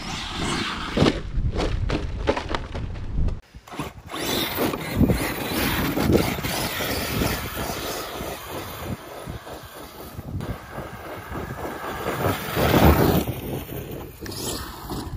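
Arrma Kraton 8S RC monster truck with brushless electric power driving hard over dirt and rubble, tyres and chassis scraping and knocking as it bounces along. The noise drops out briefly about three and a half seconds in.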